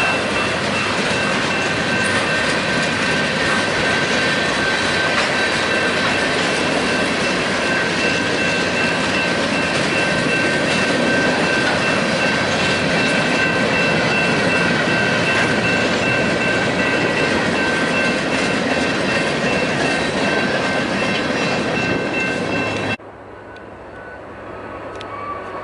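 BNSF freight train rolling past, a steady loud clatter and rumble of railcar wheels with a thin, high, steady wheel squeal over it. The sound drops off suddenly near the end.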